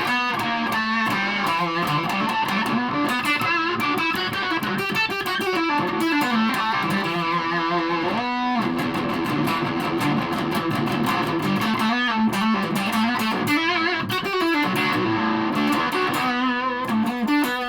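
Aria Pro II Thor Sound electric guitar played through an amplifier: a lead line of sustained notes with wavering vibrato and bends.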